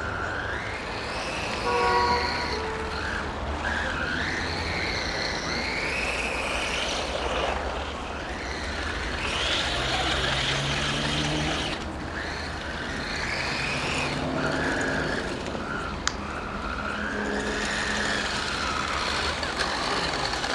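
HSP 1/10 RC monster truck's motor whining, its pitch rising and falling again and again as the truck speeds up and slows down. About two seconds in there is a brief, louder tone, and about sixteen seconds in a single sharp click.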